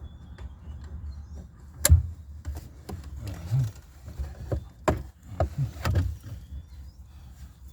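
Irregular clicks and knocks of hand tools against the dash's plastic parts as screws are started. The sharpest click comes about two seconds in, followed by half a dozen lighter knocks.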